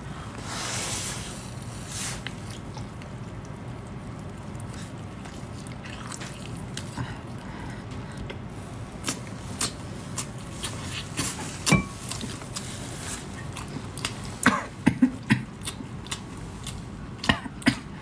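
Close-up mouth sounds of chewing spicy braised octopus: wet chewing with scattered sharp lip smacks and slurps, which come more often in the second half.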